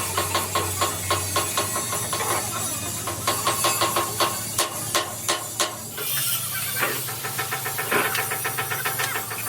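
Steel fabrication work: a steady hiss with many irregular sharp clicks and knocks over a low machine hum that steps slightly higher about six seconds in.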